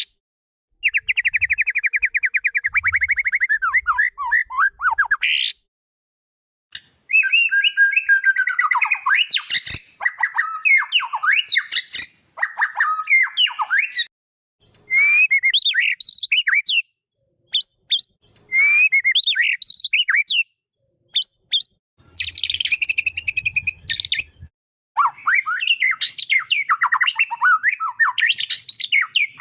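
White-rumped shama (murai batu) singing in varied phrases separated by short pauses: a fast trill, then whistled notes and warbles. A little past the middle comes a harsh, raspy burst.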